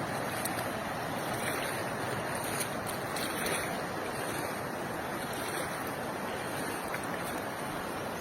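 Steady rushing of floodwater, an even noise with no tones or knocks.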